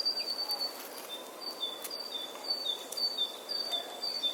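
Outdoor nature ambience with a bird repeating a clear two-note whistle, a higher note then a slightly lower one, about twice a second, over a steady background hiss.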